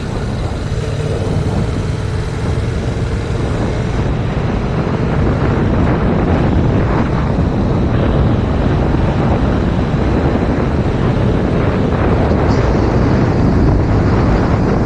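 Heavy wind buffeting on a helmet- or bike-mounted action camera's microphone at riding speed, with the Yamaha MT-07's 689 cc parallel-twin engine running underneath. It grows a little louder after about five seconds.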